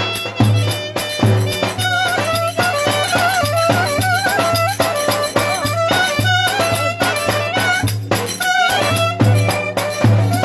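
Turkish folk dance music played by a band: an ornamented, wavering melody over a steady heavy bass beat.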